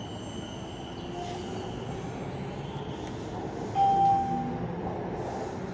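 BTS Skytrain car running as it pulls along and away from a station platform, heard from inside the carriage as a steady rumble. About four seconds in there is a short tone and a brief rise in loudness.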